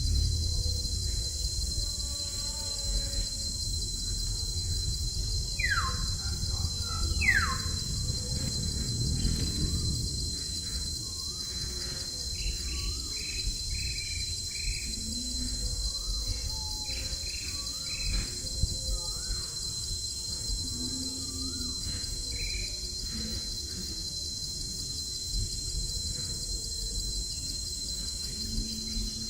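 A steady, high insect drone runs under scattered short bird chirps, with two falling whistled calls about six and seven seconds in, over a low rumbling background noise.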